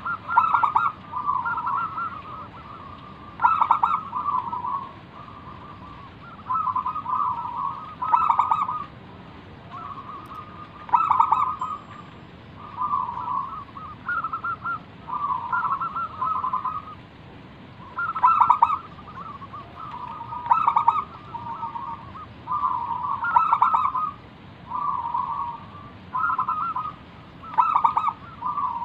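Zebra dove (perkutut) cooing its full 'manggung' song: phrases of quick staccato notes running into soft trills, repeated about every two to three seconds.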